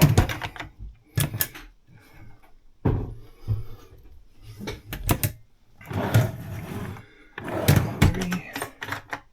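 Wooden galley drawers and cabinet doors on a sailboat being pulled open and pushed shut: a series of knocks and clacks, some with a short sliding scrape.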